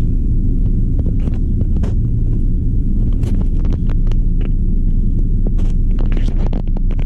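Train running with a steady low rumble and frequent short clicks and knocks over it.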